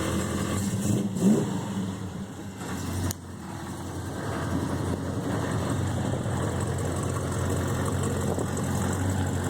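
1970 Dodge Charger R/T's 440 cubic-inch big-block V8 running just after starting. It drops suddenly quieter about three seconds in, then builds back up.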